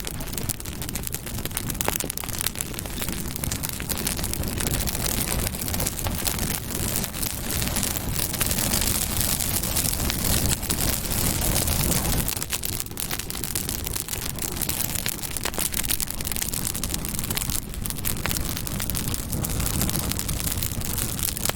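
Campfire burning: a steady rush of flames with frequent sharp crackles and pops from the burning wood.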